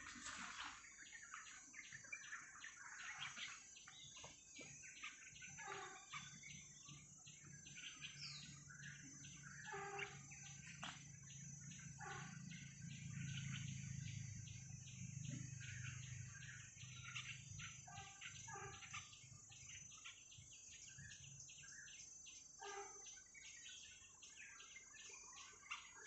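Faint forest birds calling and chirping in short, scattered calls over a steady high-pitched whine. A low drone swells and fades in the middle.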